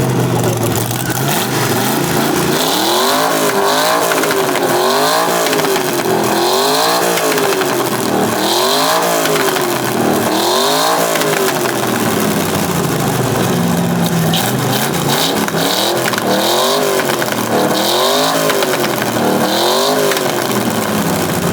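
A car engine revved hard again and again, rising and falling back about ten times, roughly once every two seconds, in a two-step pop-and-flame contest.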